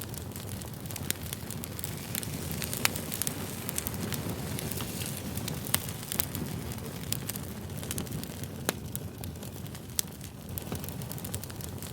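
Wood fire burning: a steady low rumble with irregular sharp crackles and pops, several of them louder snaps.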